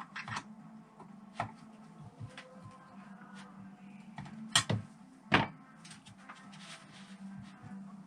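Metal engine parts being handled and set down on a workbench: a few sharp clicks and knocks, the loudest about four and a half and five and a half seconds in, over a steady low hum.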